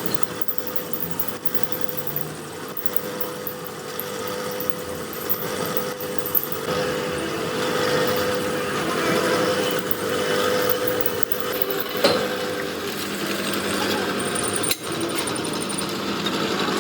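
A machine running steadily, with a couple of sharp knocks about twelve and fifteen seconds in.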